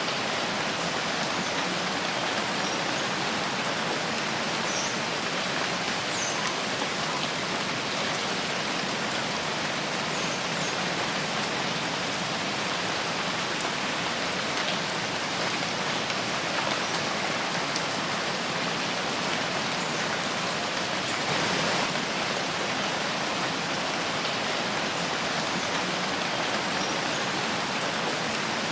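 Steady rain falling in a forest: an even hiss of rain with scattered individual drops ticking, a little heavier for a moment about two-thirds of the way through.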